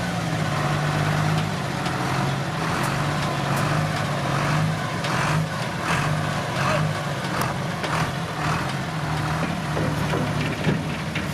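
Diesel engine of heavy road-building machinery running steadily, with scattered light clicks and knocks over it.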